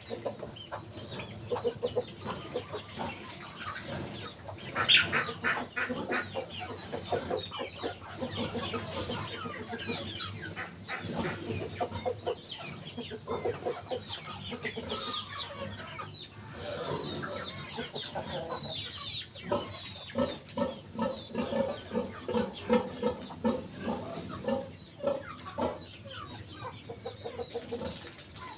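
Chickens clucking: many short clucks in a steady, overlapping run, with one louder, higher call about five seconds in.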